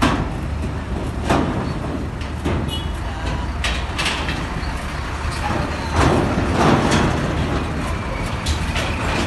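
Heavy truck engines running with a steady low rumble, broken by a series of sharp clanks and knocks.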